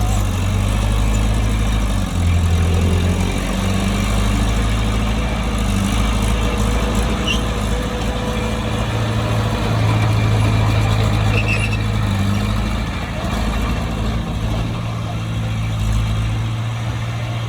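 Heavy diesel engine of a bulldozer running continuously, its low hum rising and falling a little in pitch and level as it works.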